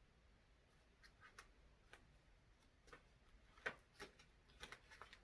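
Near silence broken by about eight faint, irregular clicks and taps, the sharpest about three and a half seconds in.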